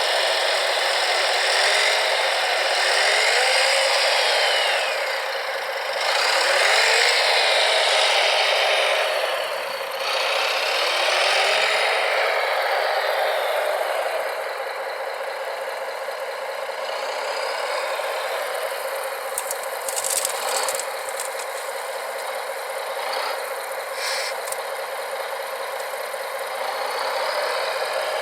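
Radio-controlled construction models' electric motors and gearboxes whining and rattling. The pitch slides up and down as they speed up and slow down, with a few sharp clicks about two-thirds of the way through.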